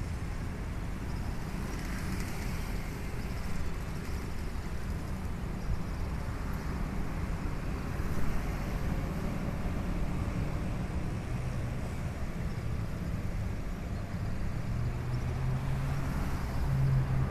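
Steady low rumble of traffic, with a diesel locomotive's engine hum coming in about two-thirds of the way through and growing louder near the end as it approaches.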